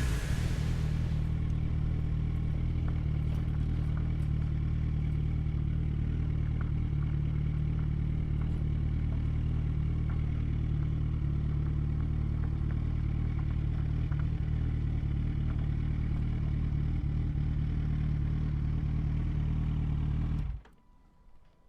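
Yamaha FZ1's inline-four engine running steadily at an even, unchanging pitch, then cutting off abruptly near the end.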